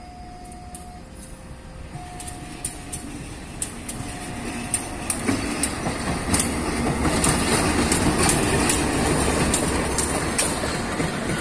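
A CC201-class diesel-electric locomotive hauling a passenger train runs slowly through a railway turnout, its engine running and its wheels clicking irregularly over the switch and rail joints. It grows louder as it draws level. A two-tone signal alternates about once a second during the first few seconds.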